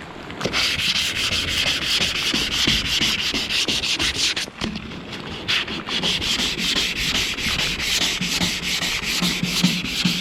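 Sandpaper wet sanding the black truck bed coating on an aluminum boat hull, worked by hand in quick, even back-and-forth strokes, with a brief pause about four and a half seconds in.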